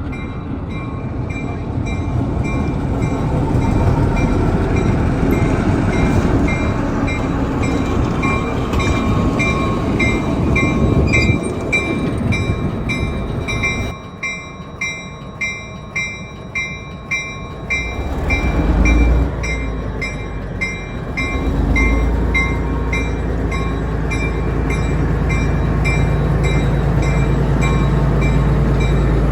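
Railroad grade-crossing bell ringing about twice a second while a train rolls through the crossing. About fourteen seconds in the train noise drops away, leaving mostly the bell, then a deep, steady locomotive rumble builds again.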